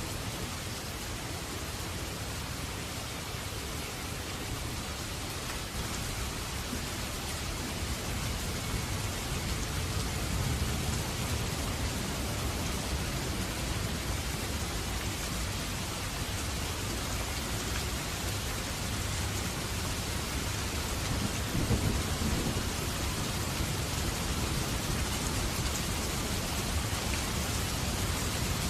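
Steady rain falling, with a low rumble of distant thunder that swells about ten seconds in and again around twenty-two seconds.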